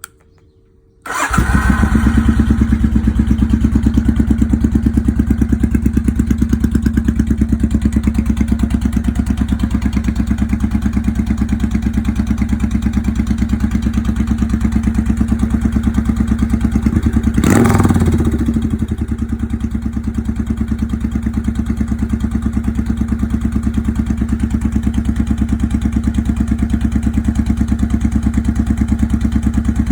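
A 1993 Suzuki Intruder 800's V-twin engine, straight-piped with no mufflers, starts about a second in and settles into a loud, steady pulsing idle. A little past halfway it gives one short blip of the throttle and then drops back to idle.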